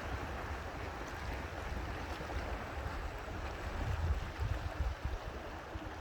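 Steady rushing of water with wind buffeting the microphone, the low rumble gusting stronger about two thirds of the way in.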